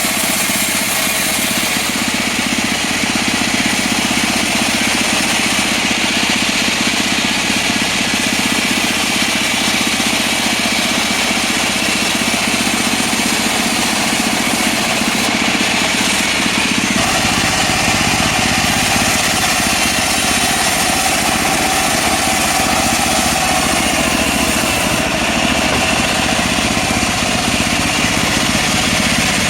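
Engine of a portable bandsaw sawmill running steadily while it saws mahogany, its tone changing about seventeen seconds in.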